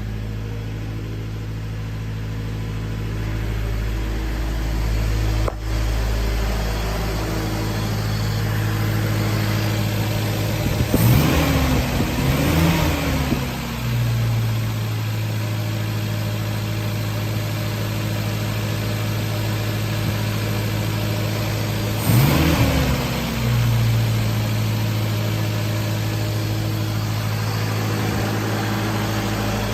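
Toyota 22R four-cylinder engine on a Weber 38 carburetor idling steadily, blipped twice, about eleven seconds in and again about twenty-two seconds in, the revs rising and dropping back to idle each time.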